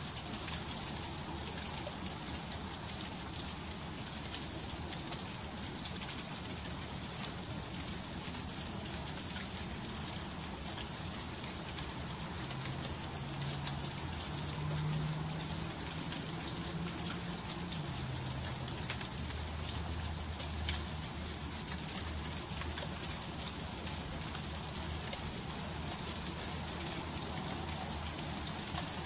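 Freezing rain falling steadily, with dense fine ticking of drops and ice on surfaces. A faint low hum comes in about halfway through and lasts a few seconds.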